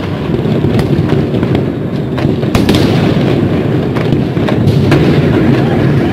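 Fireworks display: a continuous rumble of many shell bursts, with sharp cracks throughout and a stronger burst about two and a half seconds in.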